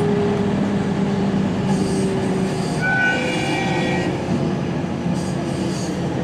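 Electric commuter train running: a steady motor hum and rail noise, with brief high-pitched squealing about halfway through.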